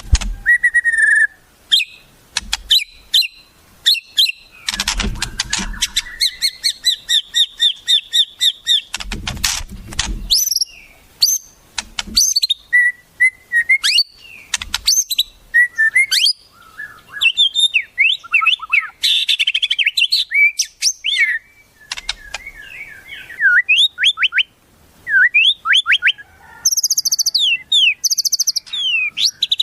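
White-rumped shama (murai batu) singing a long, varied song of quick chirps, rapid repeated notes, whistled up-and-down sweeps and high trills. A couple of low rumbles come about five and nine seconds in.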